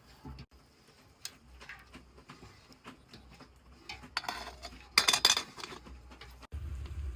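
Scattered light clicks and knocks of dishes and utensils being handled, with a louder burst of clattering about four to five and a half seconds in. Near the end a low steady rumble starts abruptly.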